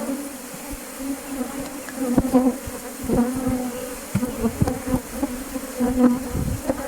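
Many honeybees buzzing around a Langstroth hive being harvested, a steady hum with irregular knocks and thumps.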